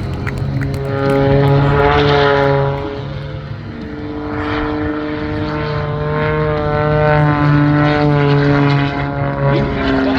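MXS-RH aerobatic plane's propeller and piston engine droning in flight, a steady buzzing note that swells, fades briefly about four seconds in, then swells again as the plane manoeuvres.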